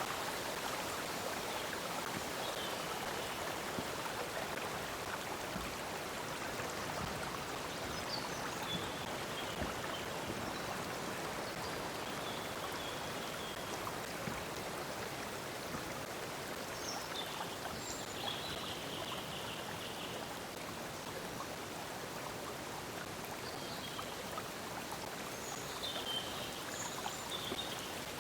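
A stream of water flowing steadily, with faint bird chirps a few times over it.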